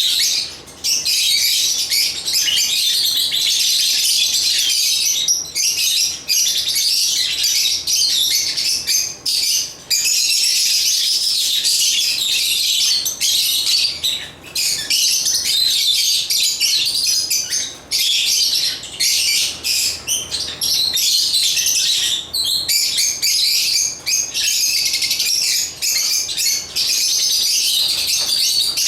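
Lovebirds (Agapornis) chirping and chattering nonstop in a dense, high-pitched stream, with only brief pauses.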